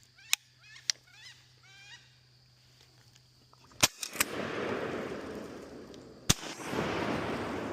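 Wood ducks calling with thin squealing whistles, then shotgun blasts about four seconds in, a quick pair followed by another about two seconds later. Each shot is followed by a loud rushing noise that fades over a second or two.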